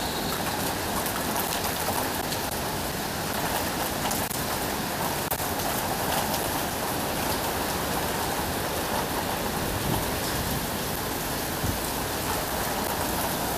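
Storm rain falling steadily on streets and surfaces.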